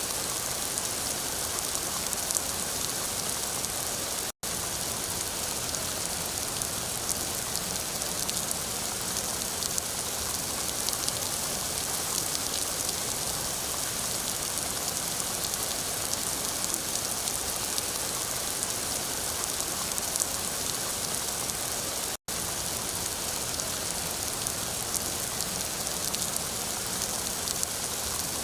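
Steady rain, a dense even hiss with scattered louder drop hits, broken by two split-second dropouts about four and twenty-two seconds in.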